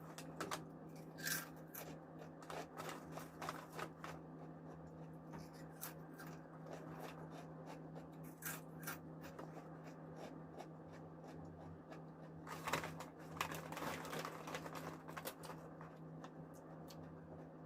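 Close-miked chewing and crunching of crispy spicy snack chips: scattered sharp crunches, with a denser run of them in the last third, over a steady low hum.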